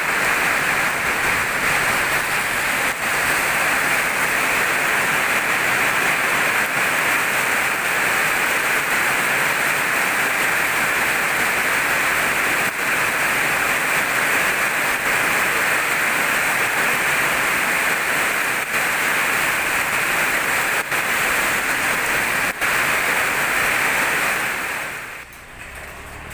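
Summer storm downpour of falling rain and hail as a loud, steady hiss, with a few sharp clicks scattered through it. It drops away sharply near the end.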